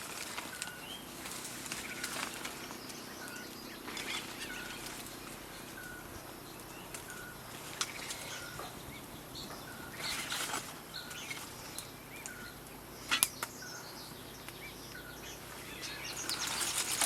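Forest ambience with a short, high call repeated a little under twice a second, and a few sharp clicks. Louder rustling comes in near the end.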